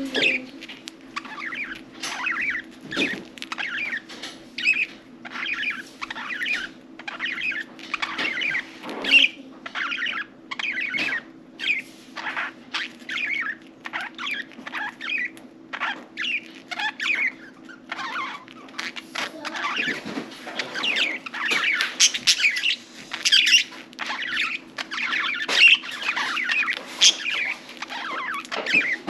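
Budgerigars chattering and chirping continuously, in quick overlapping warbles and short calls with scattered clicks, over a steady low hum.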